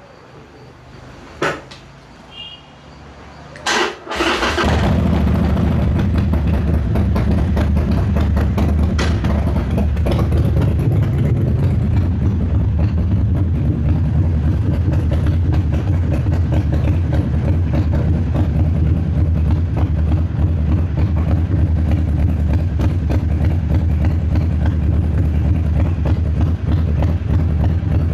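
A click and a few short beeps, then a 2016 Harley-Davidson Sportster 1200 Roadster's air-cooled V-twin, fitted with Vance & Hines Hi-Output Grenades 2-into-2 exhaust, is cranked and catches about four seconds in. It then settles into a steady, loud, low pulsing idle.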